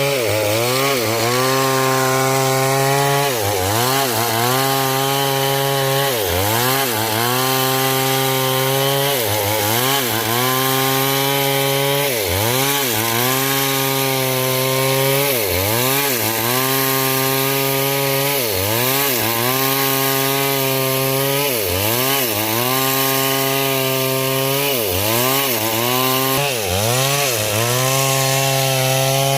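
Stihl MS 070 two-stroke chainsaw cutting hard coconut wood under load. The engine note repeatedly sags as the chain bites, then picks back up, about every two to three seconds.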